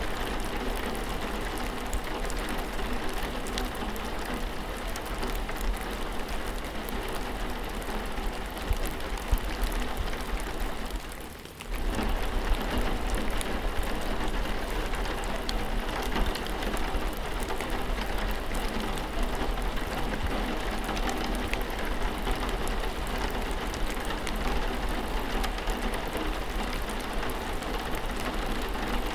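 Steady rain falling, with scattered ticks of individual drops. About eleven seconds in the sound briefly fades down, then comes back abruptly at full level.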